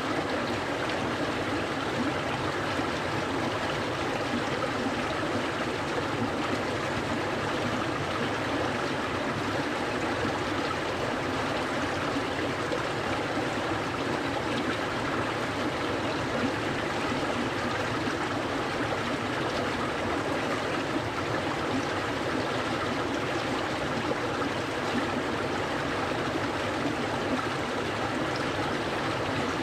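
Clear, cold stream of water flowing, a steady, unbroken rushing and babbling.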